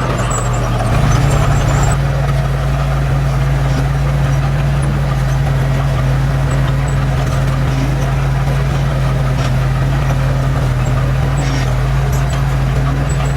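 Heavy diesel engine of earthmoving machinery running steadily with a deep, even hum, getting a little louder about a second in.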